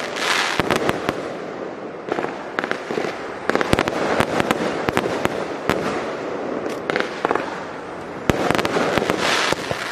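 Fireworks going off in quick, irregular succession: many sharp bangs over a steady crackle, thickening into dense clusters of reports a few times.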